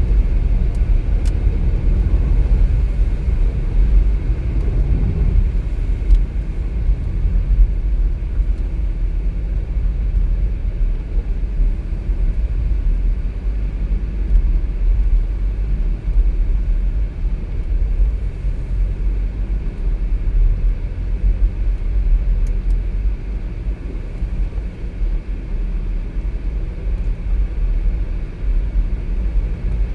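Steady low rumble of a car on the move, from road and engine noise.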